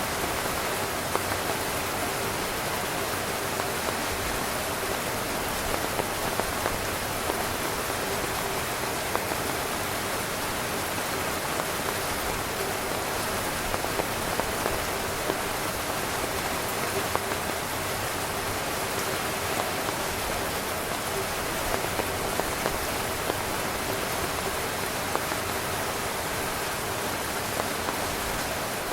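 Heavy rain falling steadily on a tent: a dense, even hiss with many individual drops tapping sharply on the fabric.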